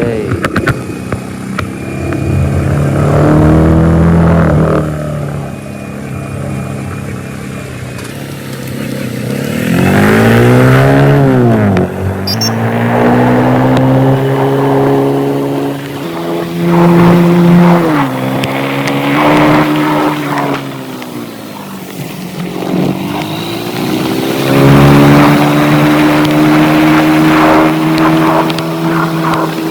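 Motorcycle engine running under way, its note rising and falling several times as the throttle opens and closes, then holding fairly steady near the end.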